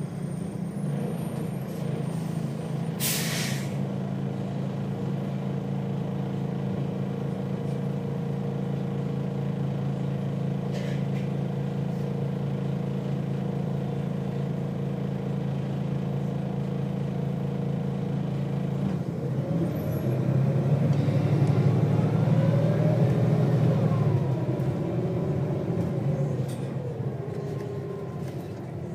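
Volvo B6BLE bus's diesel engine idling steadily, with a short hiss of released air about three seconds in. Near the end the engine revs up louder for several seconds, its pitch rising and falling as the ZF automatic gearbox takes up drive, then eases off.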